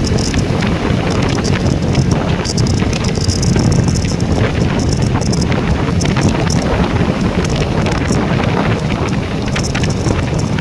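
Wind buffeting the microphone on a moving motorcycle, a loud steady rumble mixed with road and engine noise, with scattered small crackles.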